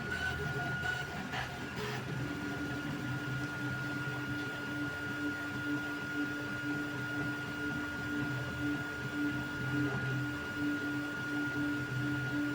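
Creality Ender 3 V3 3D printer running a print: its stepper motors whine in short, evenly repeated moves over a steady high tone, with a few light clicks at the start.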